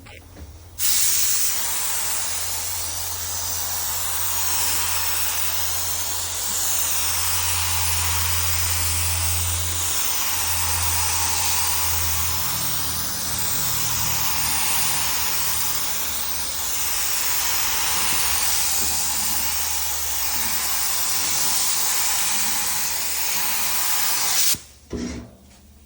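Air spray gun hissing steadily as it lays down clear coat, the hiss swelling and easing slightly with each pass. It starts about a second in and cuts off near the end as the trigger is released.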